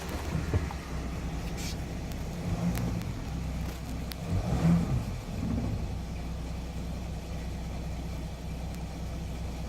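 Jeep Grand Cherokee 3.0 CRD V6 diesel (Mercedes OM642) idling steadily with a rattle that the owner suspects comes from breaking-up timing chain guides or the bottom end, while the oil pressure warning light is on at idle: low oil pressure, possibly from a blocked oil pickup. Two brief louder swells come about three and five seconds in.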